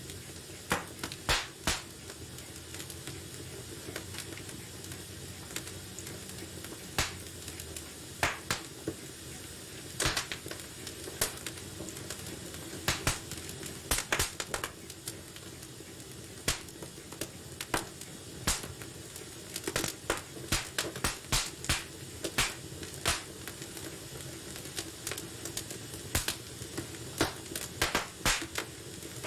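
Wood fire burning in a fireplace: a steady low hiss of flames with irregular sharp pops and crackles from the burning logs, sometimes in quick clusters.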